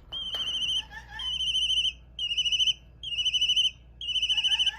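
Hawk chicks crying, played through a phone's speaker: five shrill, quavering cries, each about half a second long, repeated roughly once a second.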